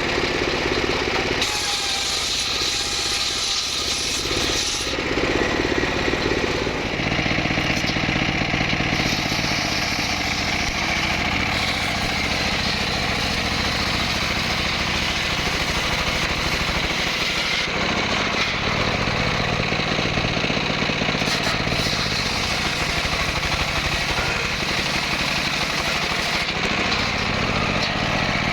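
Engine of a wood-cutting power saw running continuously, its load and pitch shifting several times as it works through mahogany.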